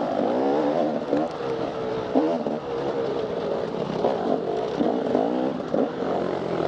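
Off-road dirt bike engine revving up and down repeatedly as the throttle is worked on a trail.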